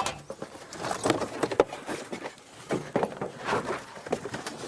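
Irregular light knocks, clicks and rustling of people handling gear and moving about on foot.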